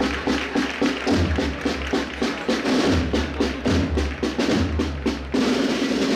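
Holy Week procession band drums: rapid snare-drum strokes over repeated bass-drum beats. The sound changes abruptly about five seconds in.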